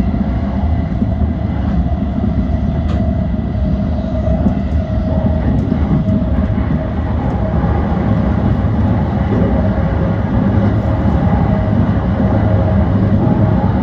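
Yokosuka Line E235 series electric multiple unit running along the line: a steady rumble of wheels on rail with a faint steady whine over it, growing slightly louder toward the end.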